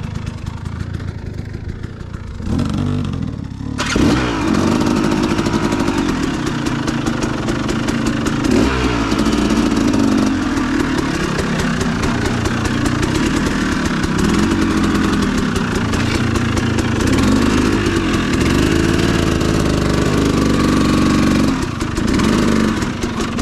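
Dirt bike engine ticking over at first, then throttled up about four seconds in and ridden on, its pitch rising and falling again and again as the throttle is worked over rough ground, with a brief let-off near the end.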